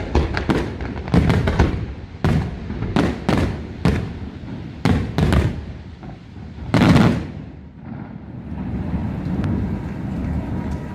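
Aerial fireworks shells bursting in quick succession, about a dozen sharp bangs with echoing tails. The loudest comes about seven seconds in, and the bangs stop about a second later, leaving a low, steady background.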